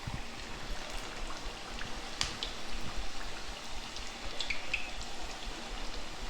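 Rice-flour chekkalu deep-frying in hot oil: a steady sizzle with scattered small pops and crackles.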